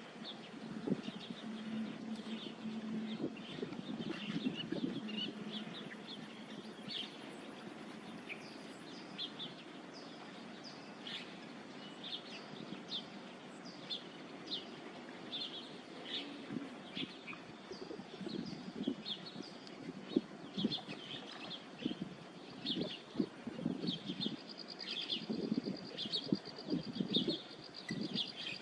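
Birds chirping: many short, high calls repeating on and off, with low irregular sounds growing more frequent in the second half. A low steady hum runs under the first few seconds.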